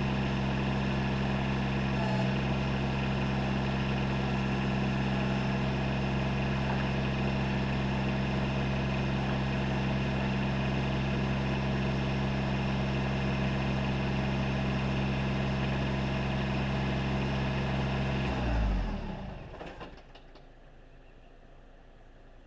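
Kubota BX23S tractor's three-cylinder diesel engine running steadily, then shut off about 18 seconds in, the sound dying away over a second or so and leaving quiet ambience.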